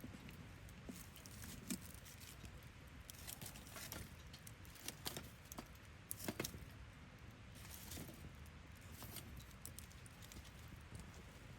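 Scattered light clicks and rustles of small objects being handled, clustered in the middle, over a steady low rush.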